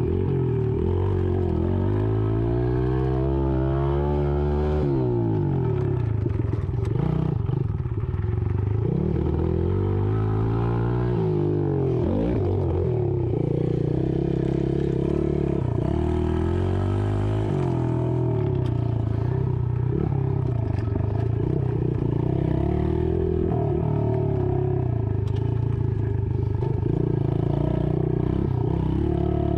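Small dirt bike engine being ridden, its pitch rising and falling again and again as the throttle opens and closes.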